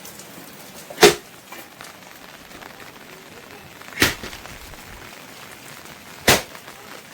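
Three sharp knocks, a few seconds apart, over the steady hiss of rain.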